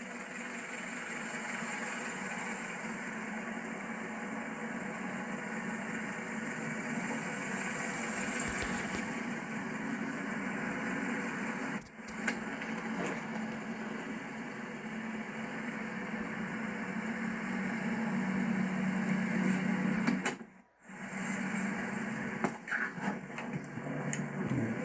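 Steady mechanical hum, broken briefly about twelve seconds in and again, more deeply, near twenty-one seconds.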